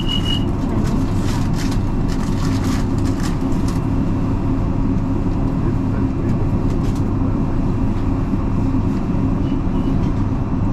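Passenger train running on the rails, heard from inside the carriage as a steady low rumble. A high tone cuts off about half a second in, and a run of sharp clicks and knocks follows over the next few seconds.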